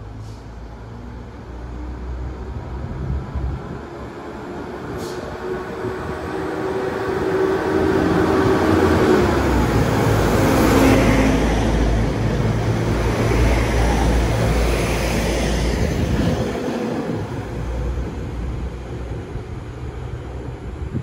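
A train going past close by: it builds up over several seconds, is loudest in the middle with a tone that drops in pitch as it passes, then eases away.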